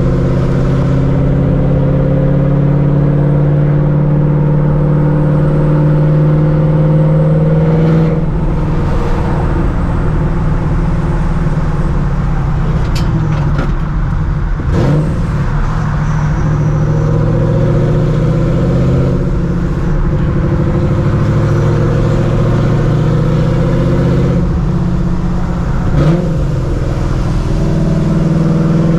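Supercharged Ford 4.6 L 2V V8 of a New Edge Mustang GT, running loud through open exhaust cutouts dumped off the X-pipe while driving. The engine note climbs slowly through each gear and drops at the shifts, about 8 seconds in, again near 20 seconds and near the end, then climbs once more.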